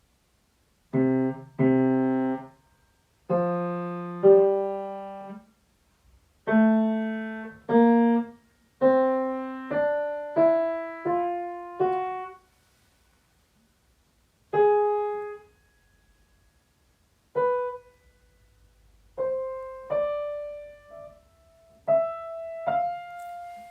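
Piano playing a slow tune, its notes and chords struck one at a time and left to ring, in phrases with short pauses between them; the melody climbs higher toward the end.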